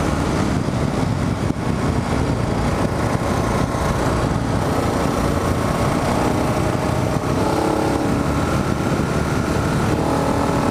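Kawasaki KLR 650 single-cylinder motorcycle engine running while riding, under a steady low rumble of wind and road noise. The engine note rises a little in the last few seconds.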